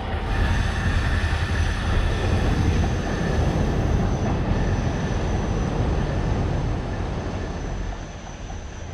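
Red diesel power set (diesel multiple unit) passing close and running away along the line, with a steady high squeal from the wheels on the rails; the sound fades over the last couple of seconds.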